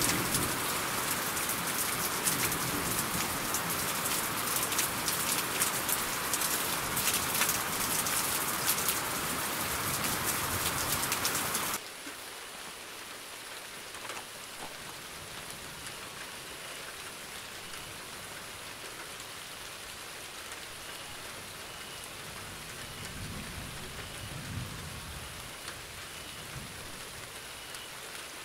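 Heavy rain with a dense patter of drops cuts off abruptly about twelve seconds in and gives way to a quieter, steady light rain. A faint low rumble swells briefly near the end.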